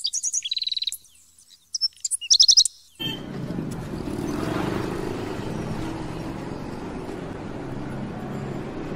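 Small birds chirping in two quick, high twittering runs, one at the start and one about two and a half seconds in. After that comes a steady, low background hum.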